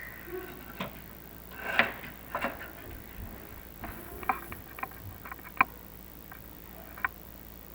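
Irregular light clicks and knocks from a chimney inspection camera rig being lowered down a clay flue tile liner, over a faint steady low hum.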